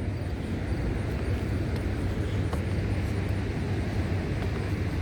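Steady rushing roar of the Ohiopyle waterfall and river, an even wash of water noise heaviest in the low range.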